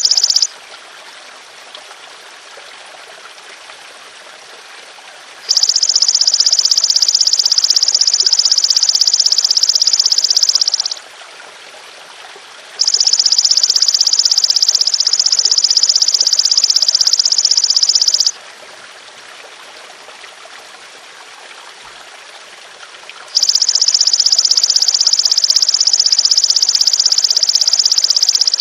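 Golden grasshopper (belalang emas) giving long, even, high-pitched buzzing calls of about five seconds each, three in full with a few seconds between them, over steady trickling water.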